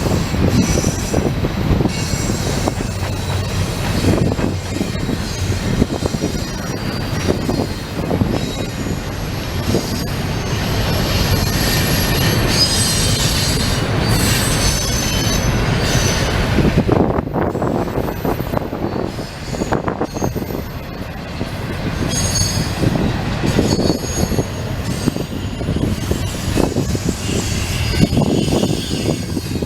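Cars of a long intermodal freight train rolling past, with a steady rumble and clatter of wheels on the rails and faint high wheel squeals coming and going.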